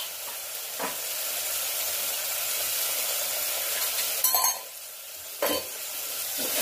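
Spiced onion-tomato masala sizzling as it fries in a pressure cooker, with a wooden spoon stirring and knocking against the pot a few times.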